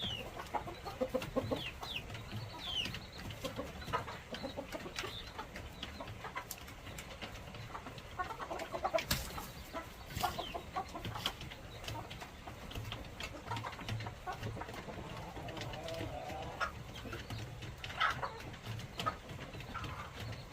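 Chickens clucking and calling, with scattered short clicks and knocks.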